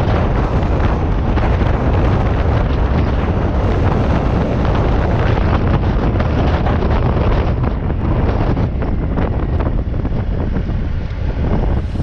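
Wind buffeting the microphone over a steady low drone of a motorcycle engine under way.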